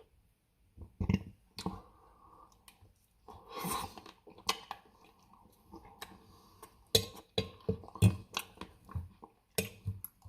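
Close-miked chewing and mouth sounds of someone eating soft ice cream cake, with irregular wet smacks and clicks.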